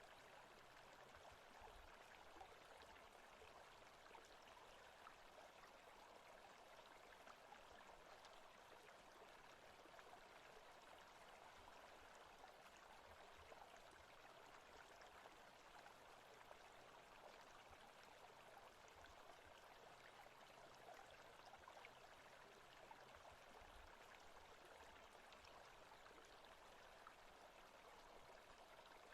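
Faint forest ambience track: a steady, even rush like a flowing stream.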